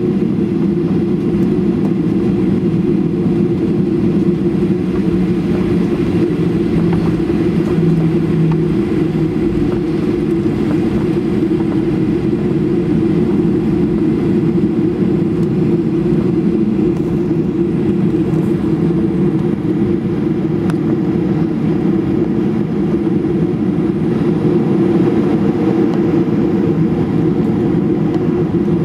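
Steady engine rumble heard inside the cabin of a Ryanair Boeing 737 with its engines running on the ground after pushback.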